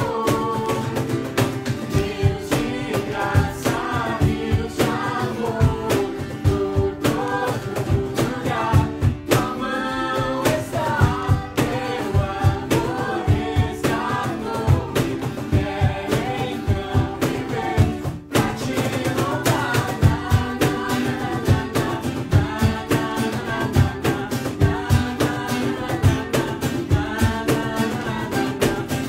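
A live band playing a Portuguese-language Christian worship song: sung vocals over acoustic guitar and a drum kit keeping a steady beat.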